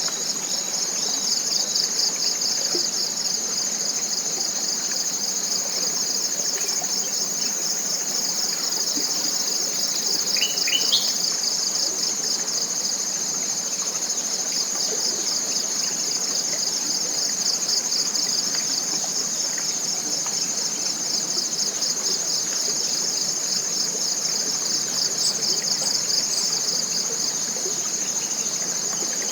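Dense, continuous chorus of forest insects trilling high with a fast pulsing rhythm. A short bird chirp comes about ten seconds in, and a few faint high chirps come near the end.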